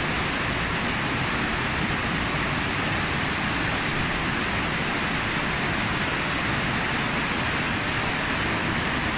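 Steady rushing of river water flowing through an underground concrete tunnel channel, an even hiss that holds one level throughout.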